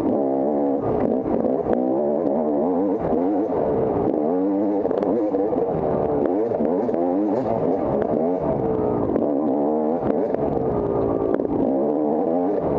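Off-road motorcycle engine revving up and down continuously as it is ridden, with scattered short clicks and knocks.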